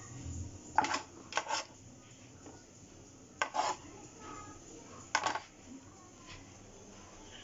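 Kitchenware clinking: a handful of short, sharp clinks of dishes and utensils knocking together, several coming in quick pairs.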